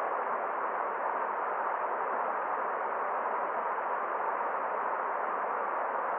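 Forest stream water running, a steady even rush with no single splashes or drips standing out.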